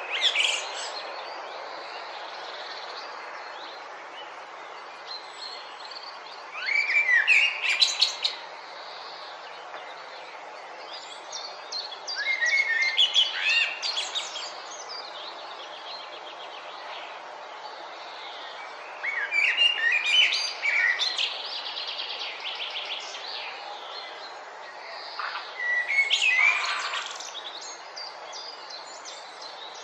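A songbird singing short phrases of quick trills and notes, repeated about five times, each two to three seconds long with pauses of a few seconds between, over a steady outdoor hiss.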